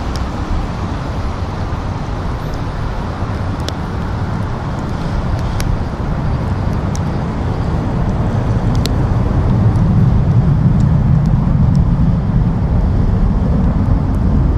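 Jet airliner engines during a takeoff on a wet runway: a steady, loud low rumble with a hiss above it that grows louder about ten seconds in. A few faint ticks show through.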